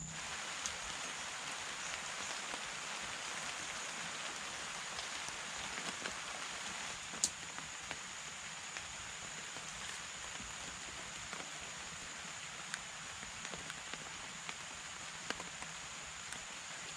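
Steady rain falling on a camping tarp, with scattered louder drops landing as sharp ticks, the sharpest about seven seconds in.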